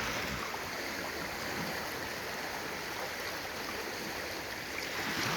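Rain-swollen river in flood, a steady rush of fast-moving water, with water churning over a large rock in mid-stream.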